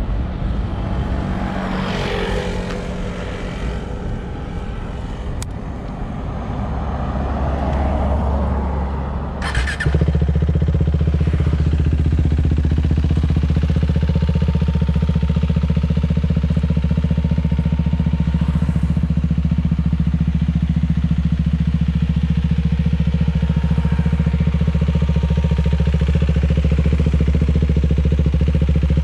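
KTM Duke 390 single-cylinder engine breathing through a MIVV GP carbon full-system exhaust. It settles, after a sharp sound about nine and a half seconds in, into a louder, steady, unchanging note that runs from about ten seconds in.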